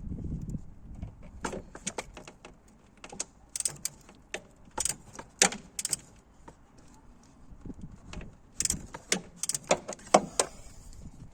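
Irregular metallic clicks, clinks and knocks of hand tools and parts being handled during engine-bay work, with the loudest knock about ten seconds in.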